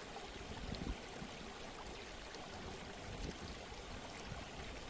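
Steady running water, like a small stream trickling, used as a relaxation background sound.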